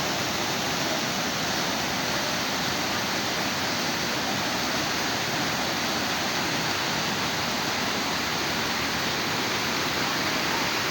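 Steady, unbroken rushing noise at an even level, with no rhythm or distinct events.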